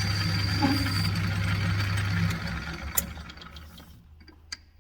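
Metal lathe running with a steady motor hum and a thin high whine, switched off a little over two seconds in and spinning down. A sharp click about three seconds in, then a few light clicks and taps.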